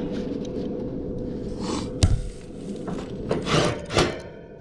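Tools and parts being handled while working on a heat pump outdoor unit: a sharp knock about two seconds in, then short scraping and rubbing sounds near the end, over a faint steady hum.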